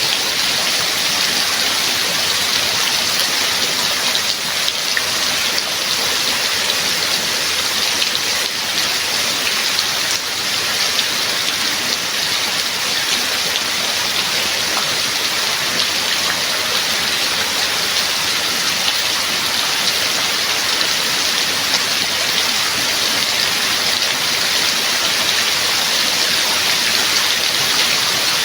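Steady rain falling, a constant even hiss of drops with no let-up.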